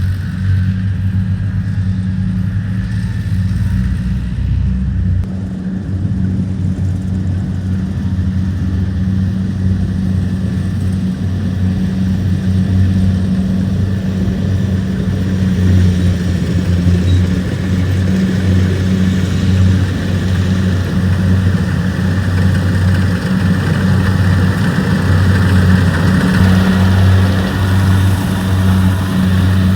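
Rice combine harvester engines running steadily with a deep, even hum. The machinery noise grows somewhat fuller and louder from about halfway through.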